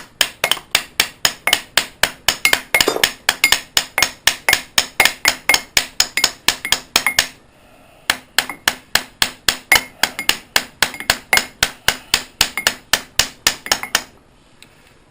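Hammer blows on metal in a fast, steady rhythm of about four strikes a second, with a faint ring under them, pausing briefly about seven seconds in and then going on, to knock a stuck bolt free of the engine.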